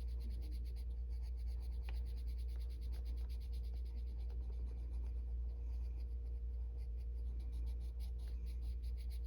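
Colored pencil scratching on paper in quick, light back-and-forth strokes, feathering the colour out, over a steady low hum.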